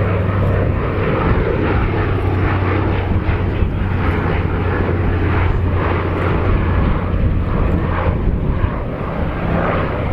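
Consolidated PBY-5A Catalina flying a display pass, its two Pratt & Whitney R-1830 Twin Wasp radial engines running with a steady low drone.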